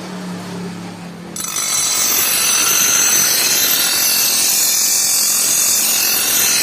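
A power grinder working steel. A low motor hum gives way, about a second and a half in, to a sudden loud, steady grinding that carries on.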